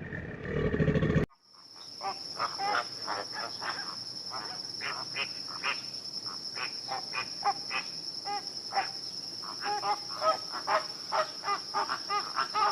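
Wild animal calls: many short, pitched calls repeated several times a second over a steady high-pitched insect-like drone. This starts about a second in, after a louder, lower animal sound cuts off.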